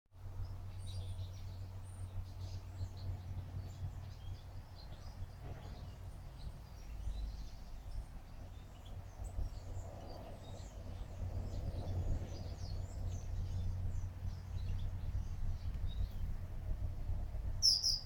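Small birds chirping and twittering throughout over a steady low background hum, with one louder, sharper chirp near the end.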